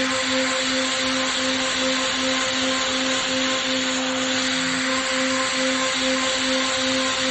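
Tomahawk Pro CNC machine running steadily while machining a plate: an even hiss of spindle and cutting noise over a hum that pulses about three times a second.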